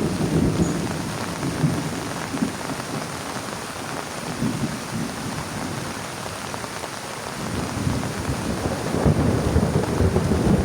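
Heavy rain drumming on a plastic tarp in a thunderstorm. It eases a little through the middle and grows heavier again over the last few seconds.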